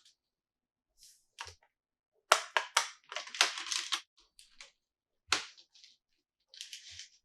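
Toy packaging handled by hand: plastic and cardboard crinkling and clicking in short irregular bursts, the densest run about two to four seconds in.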